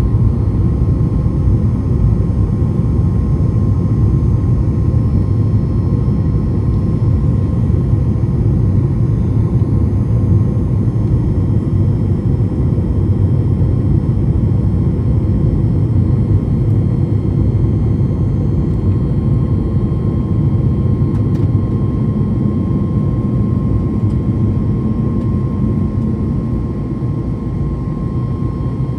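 Boeing 737 MAX 8-200's CFM LEAP-1B jet engines heard from inside the passenger cabin: a steady deep roar with a thin, constant whine above it, growing slightly quieter near the end.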